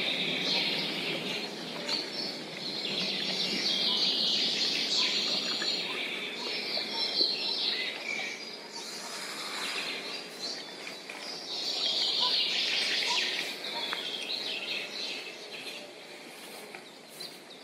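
Wild songbirds chirping and singing in several spells of a second or two each, over a steady low background noise.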